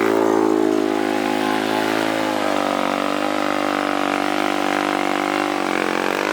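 Small off-road engine running loud and held at high revs, its pitch sagging slightly a few seconds in and dropping again near the end.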